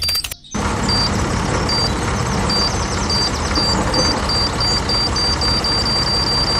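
Added sound effect: a steady, noisy rumble with a short high beep on top that repeats faster and faster, like a countdown. It starts about half a second in, once the music cuts out.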